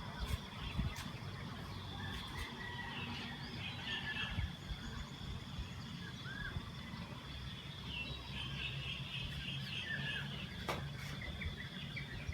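Outdoor dawn or dusk ambience: small birds chirping now and then over a steady high-pitched hum and a low rumble.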